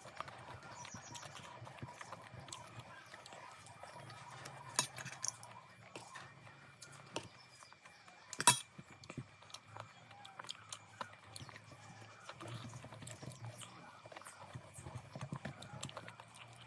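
A person eating close to the microphone: chewing and wet mouth sounds with scattered small clicks. The loudest is a single sharp click about eight and a half seconds in.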